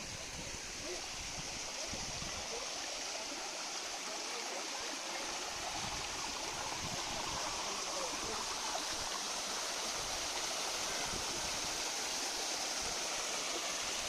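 Steady rush of flowing water from a stream, growing slightly louder.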